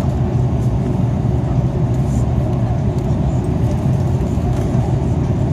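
Steady low drone of engine and airflow noise heard inside an Airbus A330 airliner's cabin in flight.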